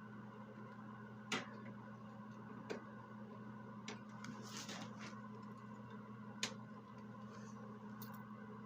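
Scattered light clicks and taps, about six in all, over a steady low hum, with a short hiss about four and a half seconds in.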